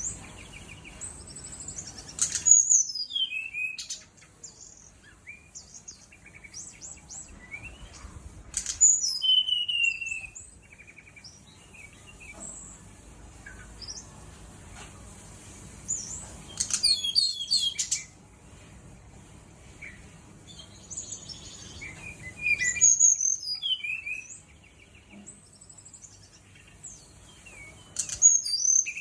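Brown-chested jungle flycatcher (sikatan rimba dada coklat) singing: loud bursts of rapid high-pitched chirps and whistled phrases about every six seconds, with softer calls between them.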